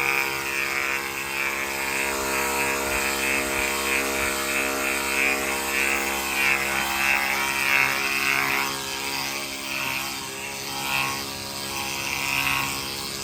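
Battery-powered portable pressure washer running: its pump motor hums steadily while the foam soap spray hisses. The hiss weakens for a few seconds near the end while the motor keeps running.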